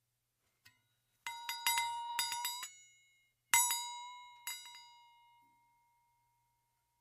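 Bell-like ringing tones: a quick cluster of strikes about a second in, then two single strikes that ring out and slowly fade.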